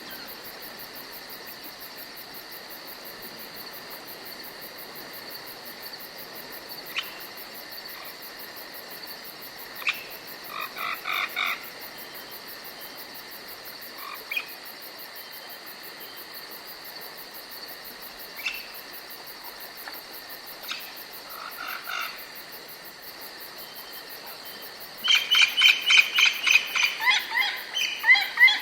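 Forest ambience: a steady high-pitched insect trill with scattered single chirps and two short bursts of rapid calls, then near the end a loud series of rapid chirping calls.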